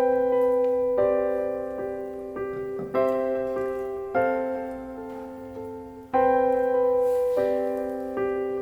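Background solo piano music: slow, soft chords struck every second or two and left to ring and fade.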